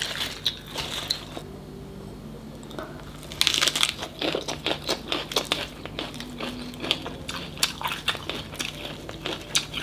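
Crunchy biting and chewing of a herb-leaf wrap of small cooked tôm nhủi shrimp: faint leaf rustling at first, then a bite about three and a half seconds in and sharp crisp crunches repeating a few times a second.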